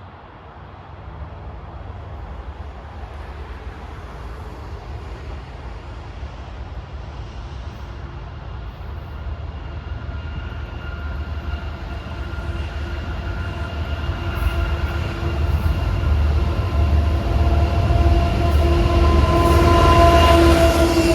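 Freight train with diesel locomotives approaching: a deep rumble that grows steadily louder, with a steady whine building over it in the second half.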